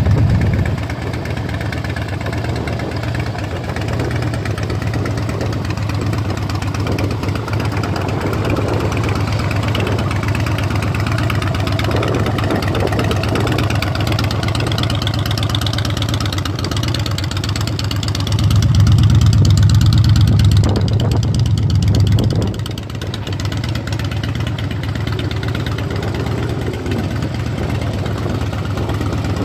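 2012 Harley-Davidson Dyna Wide Glide's 103-cubic-inch V-twin idling through a Vance & Hines exhaust. It gets louder for about four seconds around two-thirds of the way in, then settles back to a steady idle.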